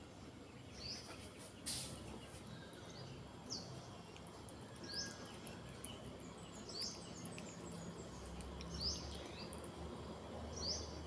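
A bird calling repeatedly, faint short high chirps every second or two, with a sharp click near two seconds in and a low hum coming up about eight seconds in.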